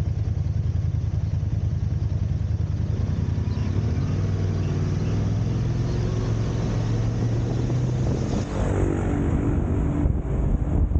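Car driving in city traffic: a steady low engine and road rumble. A pitched engine note comes through from about four seconds in, and the sound grows busier and a little louder after about eight and a half seconds.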